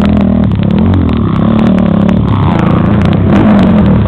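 Dirt bike engine running loud on a motocross track, its pitch rising and falling as the throttle is worked, with scattered sharp clicks over it.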